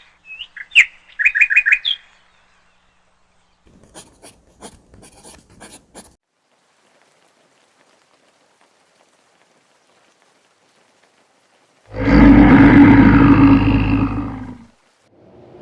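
Bird chirping in quick high notes for the first two seconds, then a few sharp clicks. About twelve seconds in comes the loudest sound: a deep animal roar lasting nearly three seconds.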